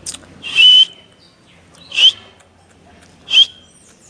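A bird gives three short, loud, harsh squawks, about a second and a half apart.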